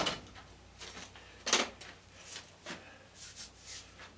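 Hand tools and metal parts clinking and clattering as they are handled and set down: a sharp knock at the start, a louder one about a second and a half in, and several lighter clicks after it.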